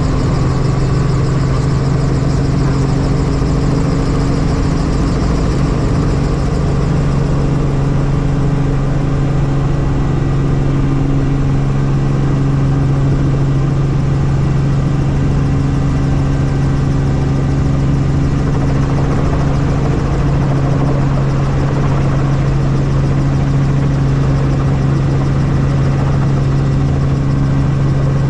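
Helicopter turbine and rotors running steadily, a loud constant low hum over a wash of noise.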